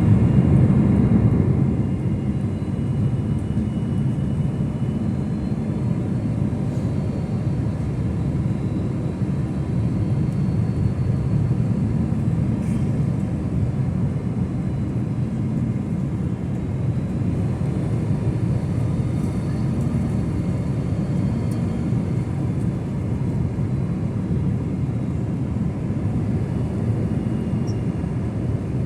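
Jet airliner on its landing approach, a steady low rumble with a few faint high tones above it.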